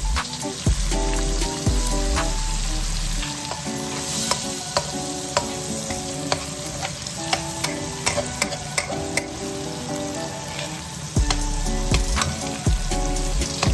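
Eggs frying in hot oil in a wok, a steady sizzle with sharp clicks and taps from the metal spatula against the pan. Near the end the spatula breaks up and stirs the eggs.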